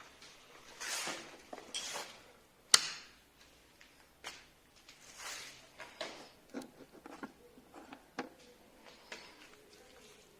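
Scattered handling noises: soft knocks, scrapes and swishes, with one sharp click a little under three seconds in, the loudest sound. No motor is running.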